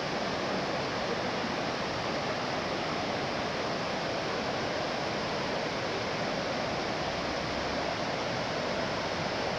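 Rushing water of a waterfall, a steady even hiss with no change.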